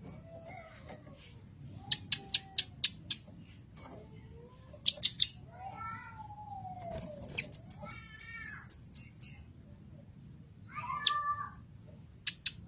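Blue-masked leafbird (cucak kinoy) singing a varied song: quick runs of four to eight sharp, high chips, mixed with lower whistled notes that slur up and down, including a long falling whistle about halfway.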